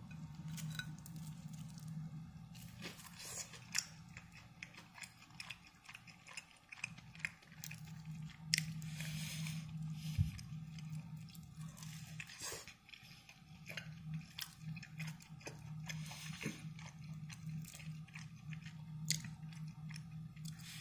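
A man chewing a mouthful of air-fried beer-battered cod, the batter crunching in many small irregular clicks, over a faint steady low hum.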